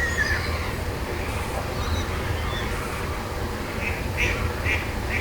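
Steady rush of water through a pond sluice, with waterbirds calling over it: one call at the start and a quick run of short calls near the end.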